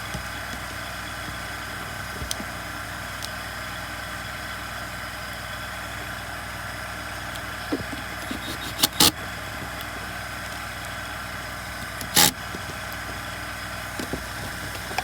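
A steady mechanical hum in the background, with a few sharp clicks and clatters of small chainsaw parts being fitted: a cluster about eight to nine seconds in and one loud knock about twelve seconds in.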